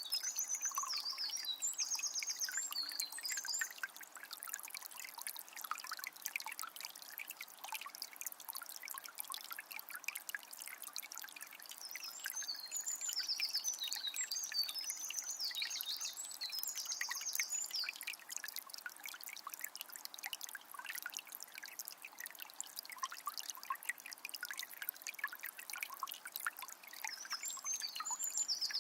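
A small spring trickling and splashing steadily, with a songbird singing quick, high trilled phrases near the start, again in the middle, and near the end.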